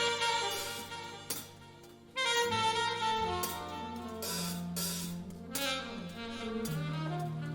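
Jazz saxophone playing with a band: bass and drums underneath. A held phrase fades away over the first two seconds, then the band comes back in with a new phrase and drum hits.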